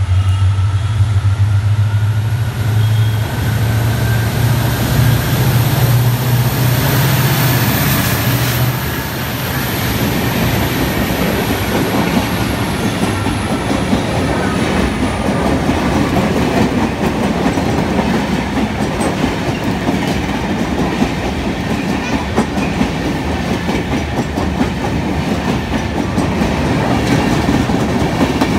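Electric passenger train passing close at speed. Over the first nine seconds a low hum carries a faint whine that rises and then falls. It then settles into the steady rumble and clickety-clack of coach wheels running over the rail joints.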